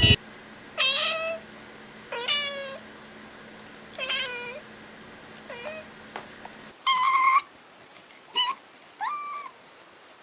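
Cat meowing repeatedly, about seven meows with pauses between: the first few slide down in pitch, and the later ones, about two-thirds of the way in, are higher and held level.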